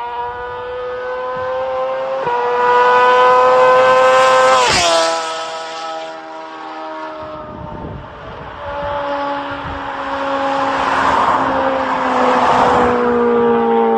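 BMW S1000R superbike's inline four-cylinder engine at high revs. Its pitch climbs and then drops steeply about five seconds in as it passes by, and then it is heard again with its note sliding slowly down.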